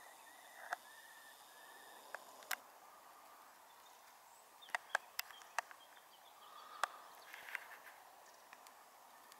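Birds calling faintly, a few short chirps in the first second or two and fainter calls further on, over a quiet background. Scattered sharp clicks stand out as the loudest sounds, most of them between about four and seven seconds in.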